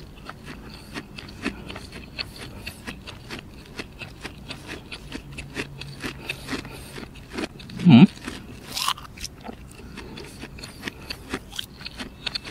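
Close-miked chewing of seafood and fried food: many small crunches and wet mouth clicks, with one brief louder hum from the eater about eight seconds in.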